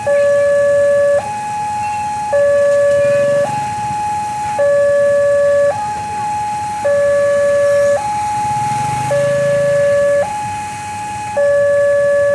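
Railway level-crossing warning alarm sounding a two-tone hi-lo signal, a lower and a higher tone alternating about once a second, steady and unchanging: the crossing is closed for an approaching train.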